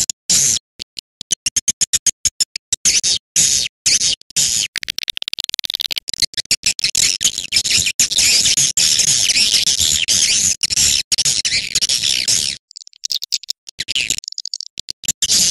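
Swiftlet lure call track: dense, high-pitched twittering and chirping of swiftlets, cut by rapid short gaps at first and then running almost unbroken, with a brief break near the end.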